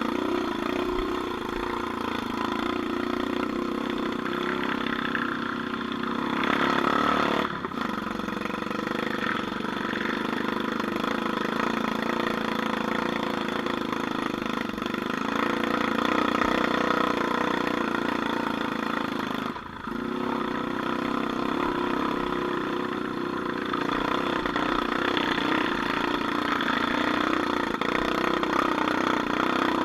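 Off-road vehicle engine running steadily, with slight rises and falls in pitch; the sound briefly drops out twice.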